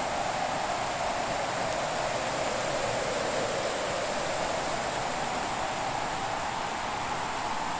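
Fire in a fireplace: a steady rushing hiss with a slowly shifting hollow tone and a few faint crackles.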